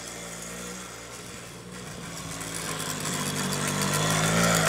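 Small petrol engine of a children's quad bike running steadily, growing louder over the second half.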